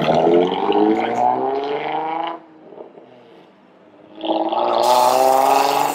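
Car engine accelerating for about two seconds, its pitch rising, then dropping away. After a short lull, about four seconds in, a second engine revs louder, with a harsh, hissy exhaust rasp over the engine note.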